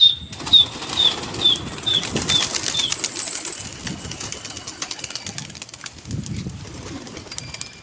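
A flock of pigeons being released and taking off, their wings flapping and clattering, with a run of six short high chirps in the first three seconds.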